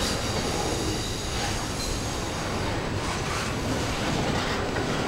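Double-stack intermodal train's well cars rolling past close by: a steady rumble and rush of steel wheels on rail, with a faint high-pitched wheel squeal over it.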